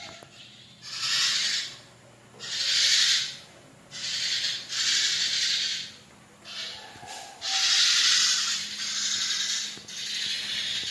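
Birds calling loudly in repeated hissy bursts of about a second each, some seven or eight of them with short pauses between.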